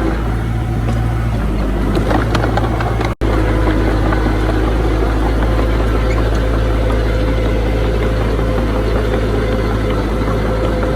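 Heavy diesel engine of earthmoving machinery running steadily, with a very brief break in the sound about three seconds in.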